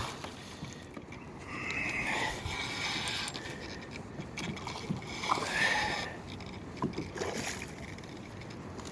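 Water splashing and sloshing around a kayak while a hooked fish is fought to the boat, with a few light knocks.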